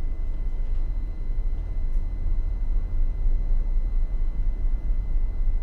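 Steady low rumble of a tugboat's diesel engines running during a tow, with a faint constant high whine over it.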